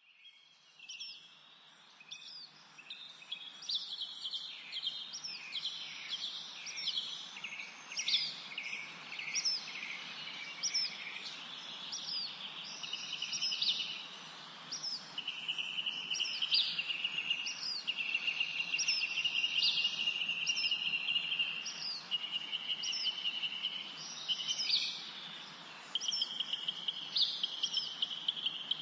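Birds chirping and calling in a busy chorus: many short, repeated high notes overlapping, with long steady trills joining in about halfway through.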